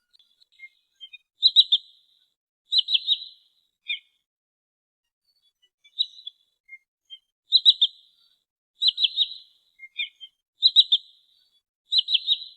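Sandpiper calls: short high bursts of three or four quick notes, repeated about every second and a half, with a few softer single notes between them. It is a recording played to lure sandpipers in.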